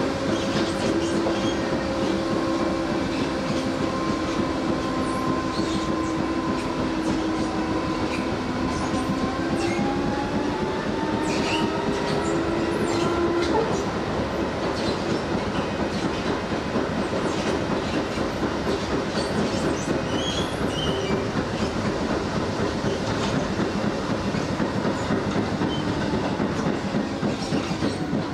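Running noise heard inside an electric commuter train car: a steady rumble with wheels clicking over rail joints. A whine of several tones holds steady, rises slowly and cuts off about halfway through, and a fainter tone falls near the end.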